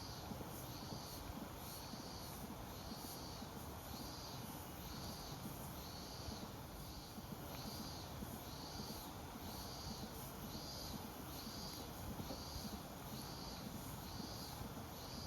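An insect calling in a steady rhythm, a short high pulse about twice a second, over a low, even background noise.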